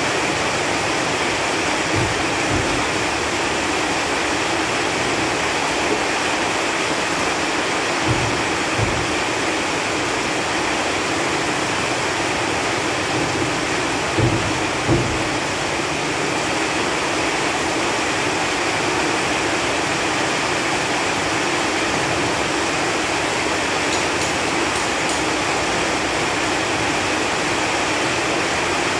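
Steady rain falling on leaves, a dense, even patter. A few soft low thumps stand out from it here and there.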